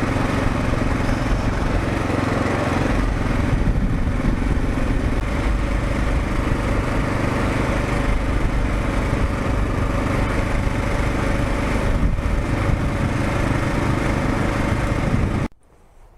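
2022 Kawasaki KLR650's single-cylinder engine running steadily under way, then cutting off abruptly near the end.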